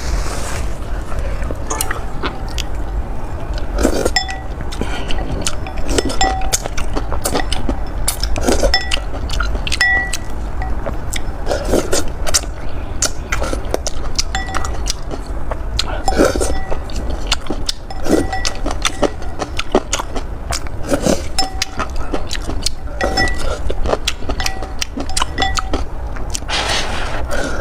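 Close-miked eating of noodles: a utensil repeatedly clinks against a bowl, many clicks with brief ringing tones, mixed with short wet eating noises from biting and chewing.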